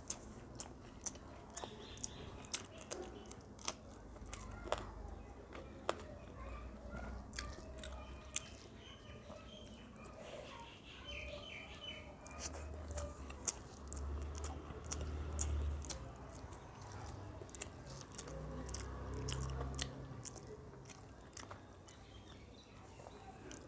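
A person chewing and biting food close to the microphone: many sharp crunchy clicks through the first half, then heavier, lower chewing from about halfway to near the end.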